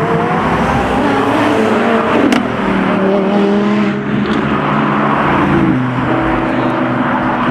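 Car engines running and revving, with the pitch stepping up and down; a sharp pop a little over two seconds in.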